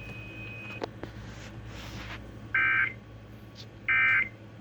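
Emergency Alert System end-of-message data bursts: two short buzzy bursts of digital warbling tones about 1.3 s apart, over a low hum, marking the end of the severe thunderstorm warning broadcast.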